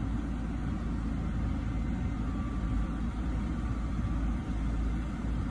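Steady low hum of an idling car, heard from inside the cabin.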